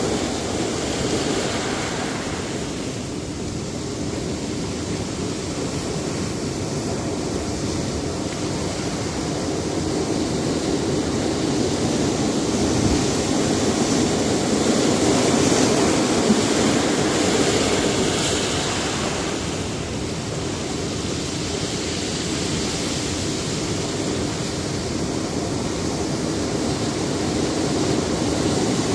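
Sea surf breaking on a rocky shore: a steady rush of waves that swells and eases slowly over several seconds.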